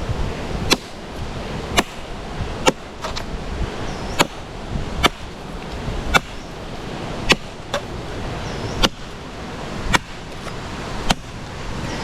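Wood being chopped by hand with a blade: about a dozen sharp blows into a tree root, roughly one a second.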